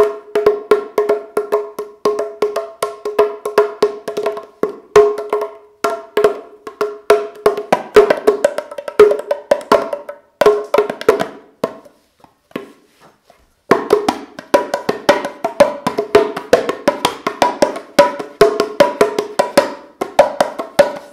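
Moroccan tbilat (tamtam) drum pair, small clay drums with goat-skin heads, struck in a fast, busy rhythm. Each stroke rings briefly at a few set pitches. The playing stops for a moment a little past halfway, then starts again.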